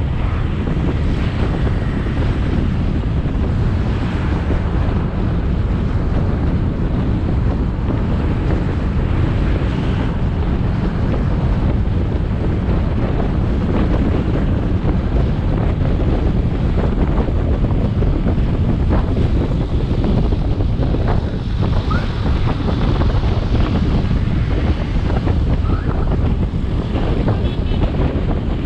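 Wind buffeting an action camera's microphone on a moving motorbike, a dense steady rush, with the bike's engine and road noise underneath. A few short rising chirps sound in the last seconds.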